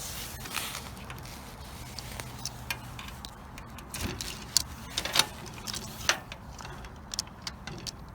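Steady low hum of a car, with many sharp clicks, knocks and a jangle of keys, loudest around the middle.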